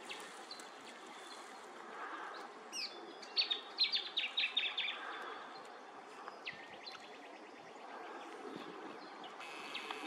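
Wild bird calling: a quick rising-and-falling whistle, then a fast run of sharp repeated notes, and a little later a falling note followed by a rapid trill. A steady high buzz sets in near the end, over a low background hiss.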